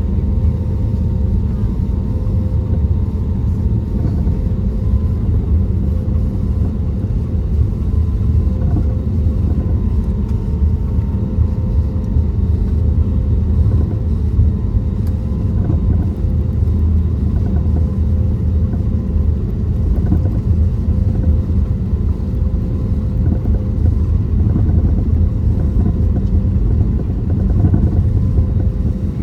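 Cabin noise inside an Airbus A320neo with CFM LEAP-1A26 engines: a steady low rumble with a faint steady hum over it.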